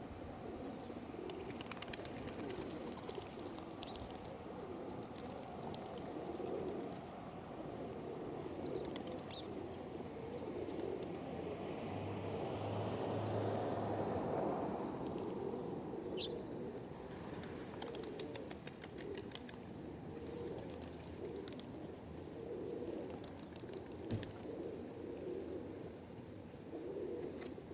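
A flock of pigeons cooing together in a continuous low murmur, with wings flapping at times.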